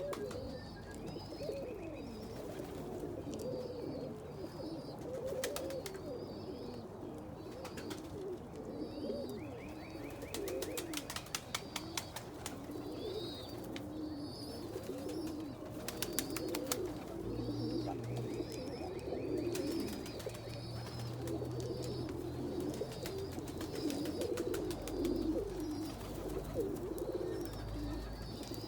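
Many domestic pigeons cooing together in a loft, a continuous overlapping murmur of coos, with repeated high chirps from small birds over it and a few bursts of sharp clicks in the middle.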